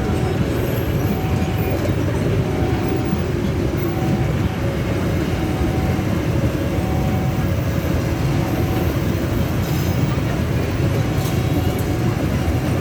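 A train running through a railway level crossing, a steady rumble of rolling stock. A short warning tone repeats about once a second throughout.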